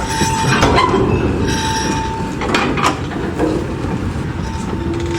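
A train's wheels rolling along the track with a rumbling noise and a thin steady squeal that comes and goes. A few sharp knocks from the rail joints come about a second in and near the middle.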